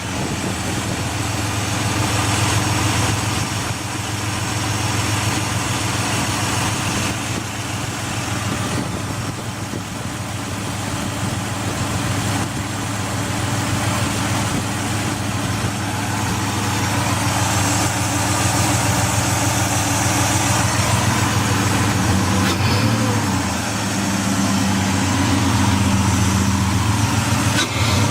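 Ford Escape XLT's 3.0-litre Duratec V6 idling roughly at a steady, unrevved speed.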